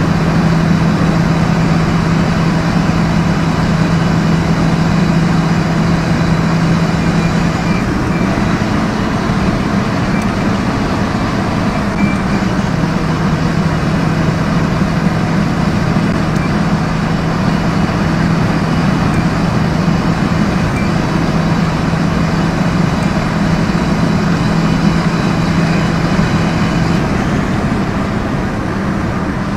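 Kia Sportage's 2.0-litre four-cylinder engine running at high revs at highway speed, heard from inside the cabin over loud road and wind noise. Its steady drone wavers about eight seconds in and fades out near the end.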